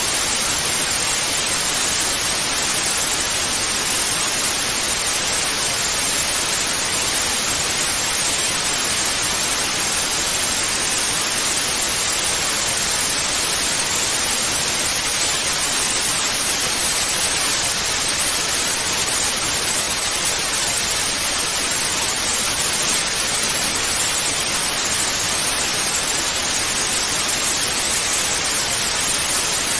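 Steady hiss of television static (white noise), even and unchanging throughout.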